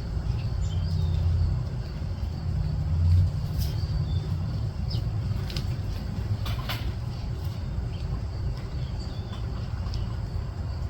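Short, scattered bird chirps and a few sharp clicks over a steady low rumble that swells briefly about one and three seconds in.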